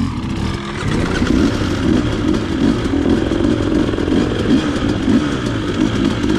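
Dirt bike engine revving hard under load, as on a hill climb, its pitch rising and falling with the throttle; it builds up about half a second in.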